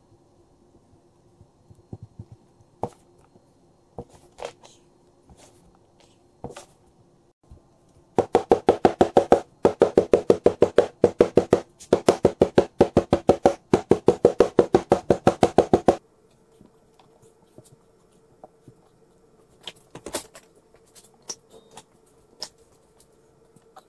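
Casting sand being rammed into a wooden moulding flask: a fast, even run of loud knocks, about six a second, lasting some eight seconds with a short break midway. Before and after are scattered soft taps and scrapes of hands working the sand, over a faint steady hum.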